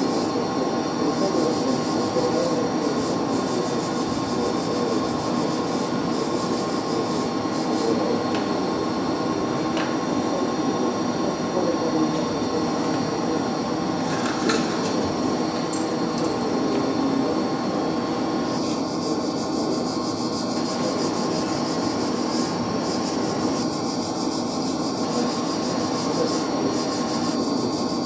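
Electric hot-air blower running steadily, drying the wet, leaking pump.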